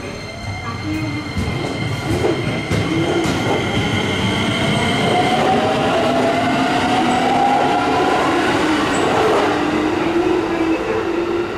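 Keikyu electric train rolling past on the rails. There are a few sharp clicks of wheels over rail joints in the first seconds, then steady loud rolling noise with whining tones, easing slightly near the end.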